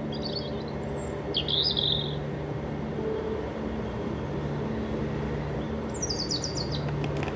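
Birds chirping: a few short high calls in the first two seconds, then a quick falling run of chirps about six seconds in, over a steady low hum.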